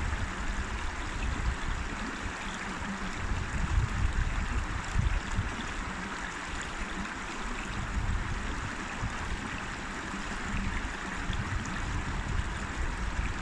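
River water flowing over stones, a steady rushing and babbling, with a low rumble underneath that swells and fades unevenly.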